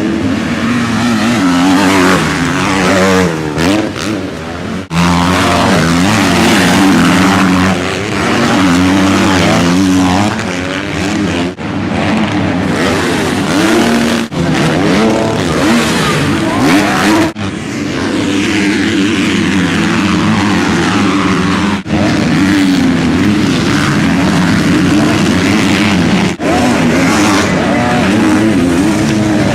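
Motocross bike engines revving hard, the pitch climbing and dropping with throttle and gear changes, in a string of short clips that switch abruptly every few seconds.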